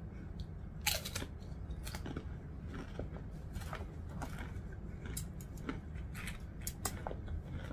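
A person chewing a crunchy wheat pita chip with beet dip: a crisp bite about a second in, then irregular small crunches and mouth clicks.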